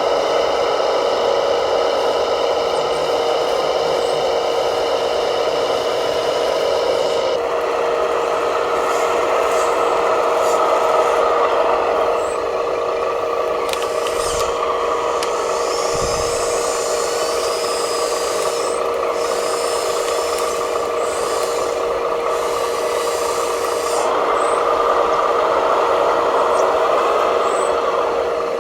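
Small electric motors of radio-controlled model construction machines whining at a steady pitch, with rubbing and scraping over it. The mix of motor sounds changes about seven seconds in.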